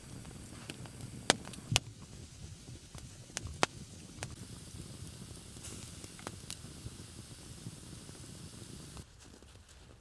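Campfire crackling: a steady hiss with scattered sharp pops, a few of them loud. The hiss drops away suddenly near the end.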